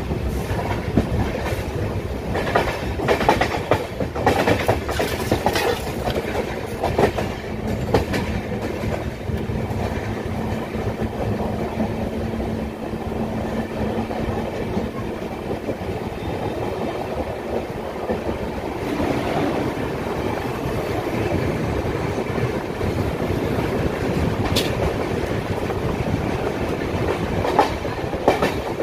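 Passenger train running along the track: a steady rumble with the clickety-clack of wheels striking rail joints, the clacks densest over the first several seconds, and a faint steady hum for a while in the middle.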